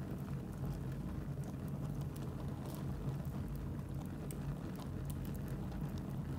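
Fire burning in a fireplace, crackling with scattered sharp pops and snaps over a steady low rumble.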